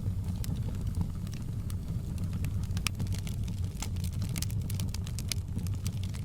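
Wood fire crackling, with scattered sharp pops several times a second over a steady low rumble; two pops stand out, about three and five seconds in.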